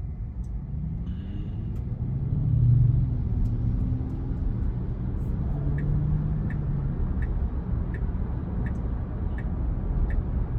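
Road and tyre rumble inside the cabin of a 2022 Tesla Model Y electric car on the move, with a low hum that swells about two to three seconds in. From a little past halfway the turn-signal indicator ticks evenly, about once every 0.7 seconds, as the car sets up a right turn.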